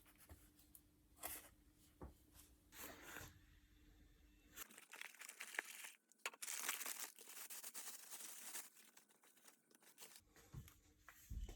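Faint handling noises: scattered clicks and knocks, then several seconds of rustling, tearing-like scraping from about a third of the way in to near the end.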